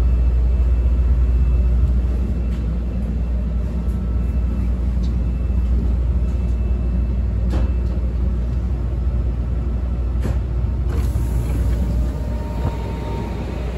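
Steady low hum and rumble of a stopped CTA 5000-series 'L' railcar standing at a station with its doors open, with a couple of sharp clicks. Near the end a high hiss comes in and the rumble gets a little quieter.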